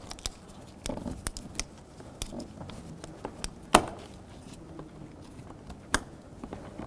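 Plastic electrical wiring-harness connectors being handled and snapped together in a car door, with scattered light clicks and rattles. Two sharper clicks stand out, one a little before halfway and one near the end.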